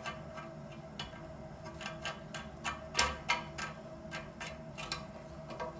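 Irregular light plastic clicks and taps, a few a second, from the mounting nut of a toilet tank flush lever being hand-tightened onto the tank. The loudest clicks come about three seconds in.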